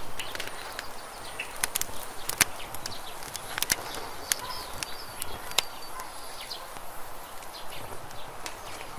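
Campfire crackling: burning wood gives irregular sharp pops and snaps over a low hiss, with the loudest pops about two and a half and five and a half seconds in.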